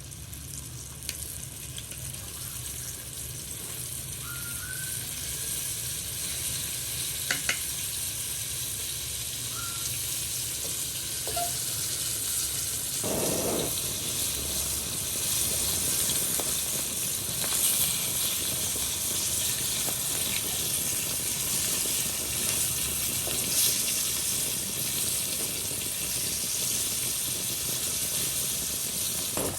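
Food sizzling in hot oil in a pan, a steady crackling hiss that grows louder over the first half, with a few light clicks.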